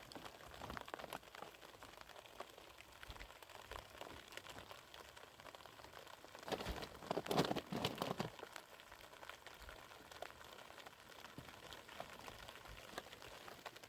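Faint pattering and rustling, with a louder burst of plastic crinkling about seven seconds in.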